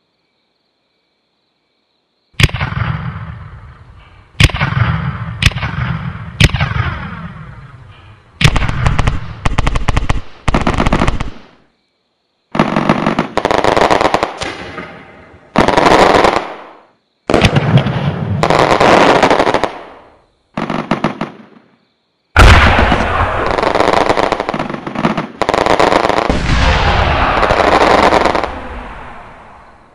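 Firework and firecracker sound effects from a homemade electronic fireworks unit: four single bangs with fading tails, then a series of crackling firecracker-string bursts, each starting and cutting off abruptly, the last one long.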